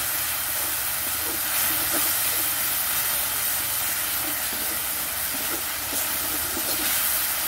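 Onion and spice masala sizzling steadily in oil in an iron kadai while it is stirred with a spatula, at the stage of frying the masala down (koshano).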